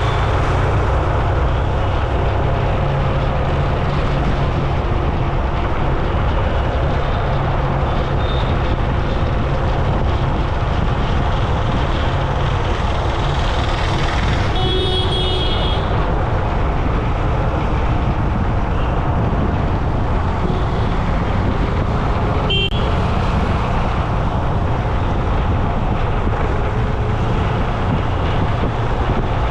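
Steady road traffic noise with heavy low rumble, as heard while riding along a road. A vehicle horn sounds for about a second around the middle, and a shorter horn blip follows several seconds later.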